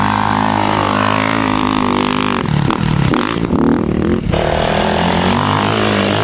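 Off-road vehicle engine running at a steady pitch, with a brief change in its note about halfway through.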